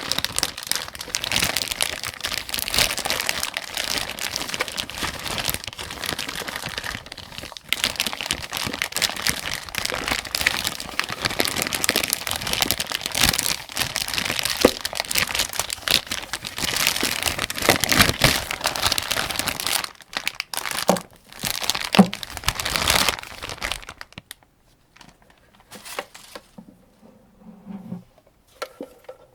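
Dense, continuous crinkling and clicking of hands handling ammunition while loading an AK-47 75-round drum magazine. It stops abruptly about 24 seconds in, leaving a few faint, light clicks.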